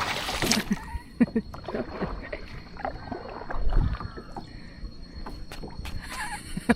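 Lake water splashing and sloshing in irregular bursts, loudest in a rush of splashing right at the start.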